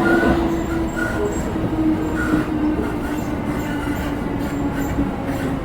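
Train wheels running over freshly ground long-welded rail, heard from inside the car: a steady droning tone over the rumble of the running gear. The pitch of the tone slowly falls. The drone is the rail grinding noise (削正音) left by the grinding marks on the rail.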